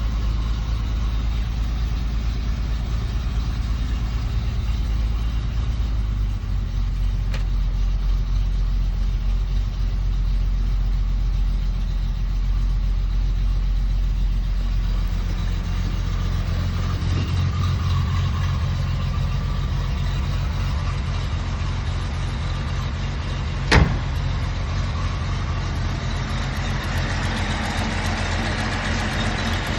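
1972 Datsun 240Z's inline-six engine idling steadily while still cold and warming up, started without the choke. A single sharp click cuts in about two-thirds of the way through.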